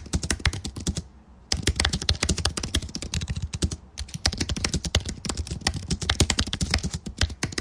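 Rapid, irregular clicking, many clicks a second, with a short pause about a second in and another just before four seconds in.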